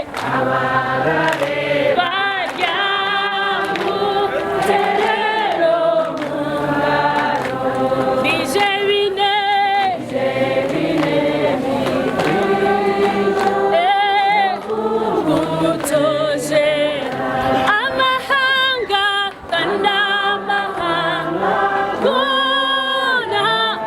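A choir singing, several voices together on long held notes with a wavering vibrato.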